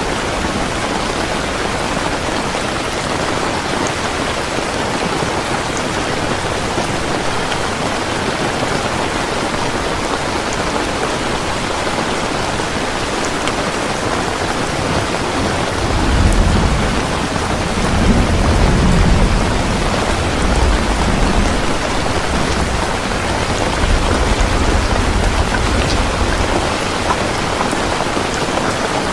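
Heavy rain falling steadily, with a long low roll of thunder that starts about halfway through and fades out near the end.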